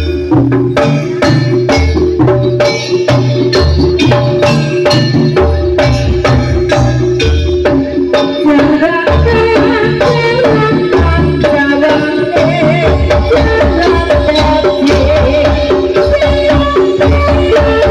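Jaranan (kuda lumping) music played live: drums and gamelan percussion beating out a fast, steady rhythm over deep, recurring low notes, with a wavering melody line held above.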